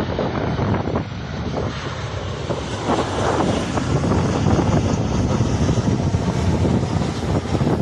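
Engine noise of an airliner on final approach to land: a loud, steady rushing noise, strongest in the low range, with wind buffeting the phone's microphone.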